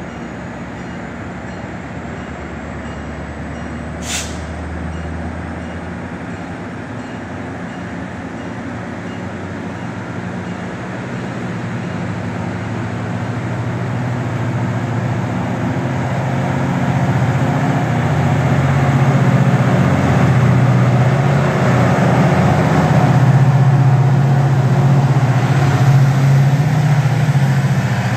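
MARC commuter train moving along the track, with the low steady drone of its MP36PH diesel locomotive's engine growing louder over the noise of the cars' wheels on the rails. There is a single sharp click about four seconds in.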